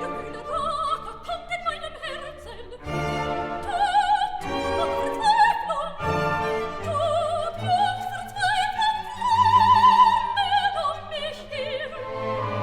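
Operatic singing with orchestral accompaniment: a voice with wide vibrato holding long notes over sustained strings.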